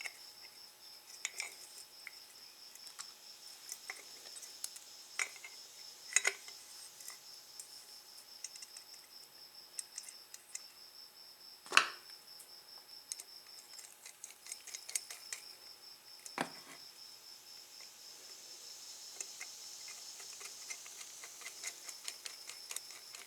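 Small metal clicks and taps of a motorcycle's mechanical tachometer being put back together by hand, scattered and irregular, with one sharper knock about twelve seconds in. A steady high pulsing chirp, like a cricket, runs underneath.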